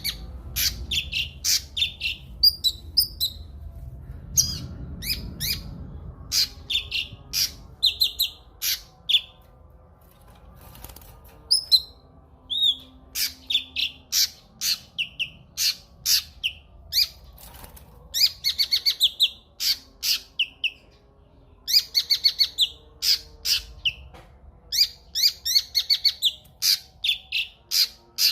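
Cucak kinoi singing: a quick run of sharp, high chirps and short trilled phrases, broken by brief pauses.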